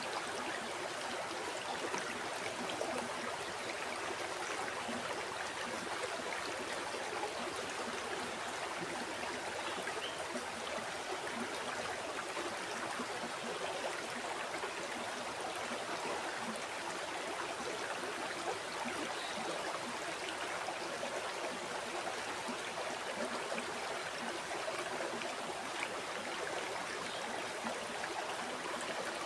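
River water flowing and babbling over rocks, a steady rushing that holds at the same level throughout.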